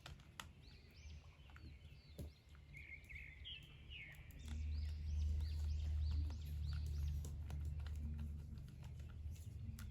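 Small birds chirping repeatedly in the background, with scattered light clicks and a low rumble that grows louder about halfway in.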